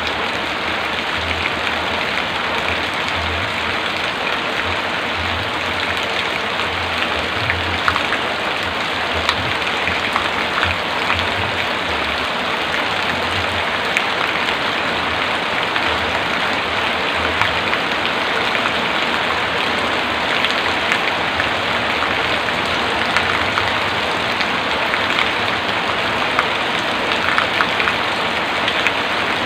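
Heavy rain falling steadily, a dense even hiss with scattered sharp ticks of individual drops striking close by.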